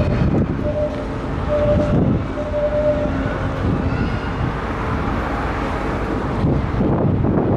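Steady low rumble of the departing car ferry Sunflower Gold's engines, with wind buffeting the microphone.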